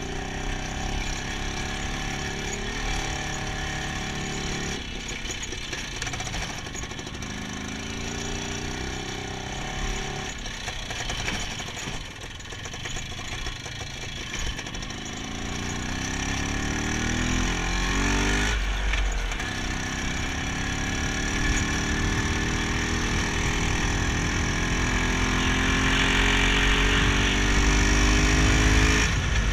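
IZh Planeta 5 single-cylinder two-stroke motorcycle engine under way, its pitch climbing and dropping as it pulls through the gears. There are several short breaks at gear changes, and a long, steady rise in pitch in the last third as it accelerates.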